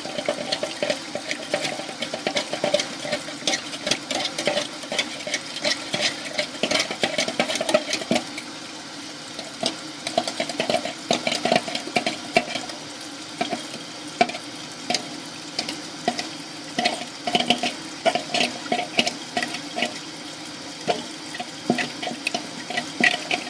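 A butter knife chopping and scraping at food scraps in a kitchen sink drain, with many irregular metal clicks and scrapes over water in the sink.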